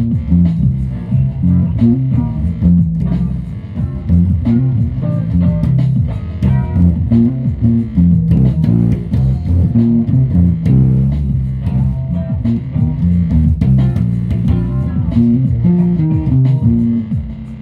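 Music on guitar and bass guitar: a continuous run of plucked notes, most of them low-pitched.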